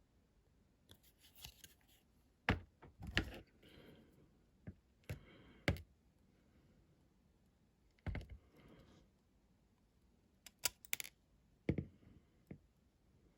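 Irregular small clicks and taps of small model parts and tools being handled on a workbench, a dozen or so sharp ticks, some in quick pairs, with quiet gaps between.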